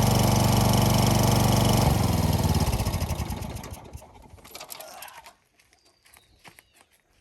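An engine running steadily is shut off about two seconds in, its sound dying away over the next couple of seconds. After that only faint ticks and a few short high chirps remain.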